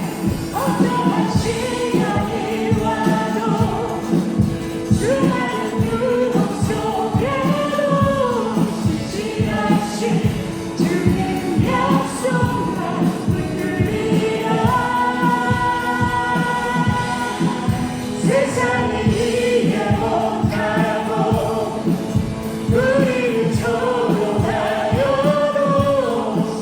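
Church praise team rehearsing a worship song: several voices singing together over instrumental accompaniment with a steady beat.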